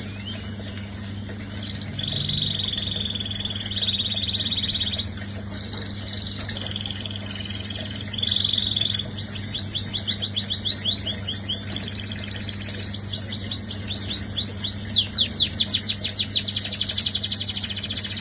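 Domestic canary singing a long, varied song of rolling trills and rapid repeated sweeping notes, growing louder in the second half. A steady low hum runs underneath.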